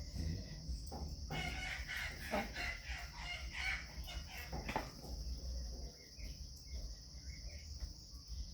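A rooster crows once, for about three seconds, starting just over a second in, over a steady chirping of crickets.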